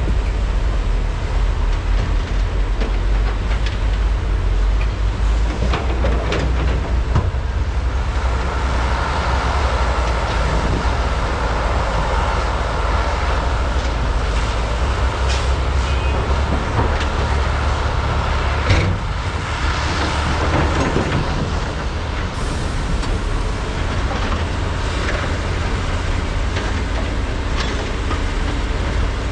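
Diesel engines of large hydraulic excavators running under load in a steady low rumble. A higher whine rises over it through the middle, and a few sharp knocks come through, the loudest near two-thirds of the way in.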